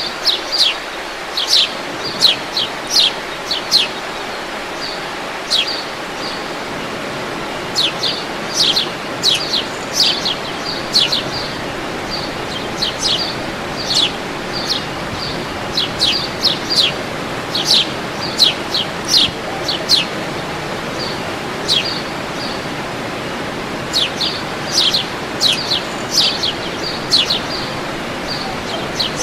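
Birds chirping repeatedly: short, sharp, high notes that drop in pitch, coming in quick clusters every second or two, over the steady rush of a waterfall.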